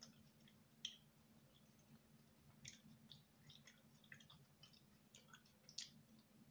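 Faint chewing of soft fufu and soup, with many small wet mouth clicks scattered irregularly and a few louder ones, over a low steady hum.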